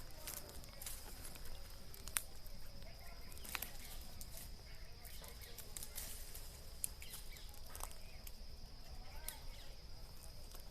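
A steady, high insect drone, with scattered sharp snaps and crackles of dry twigs and leaves being handled or stepped on.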